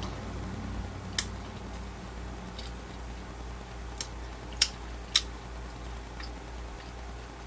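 A person chewing a piece of dry beef jerky with the mouth closed, giving a handful of short, sharp wet clicks. One comes about a second in and three come close together around four to five seconds in.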